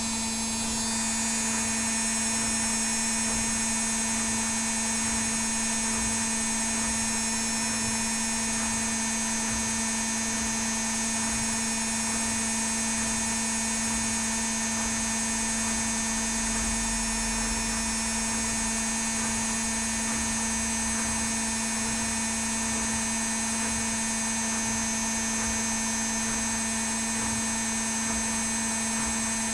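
Indesit WIL82 washing machine on its spin cycle, the drum spinning at speed with a steady hum and high motor whine; it picks up slightly about a second in, then holds steady.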